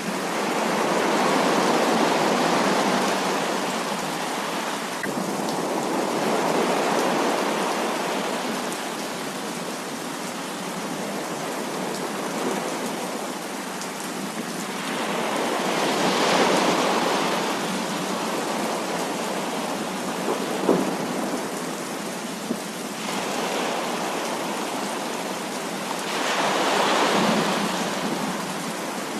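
Heavy rain falling steadily, with rolls of thunder swelling and fading several times, and a sharp tap about twenty seconds in.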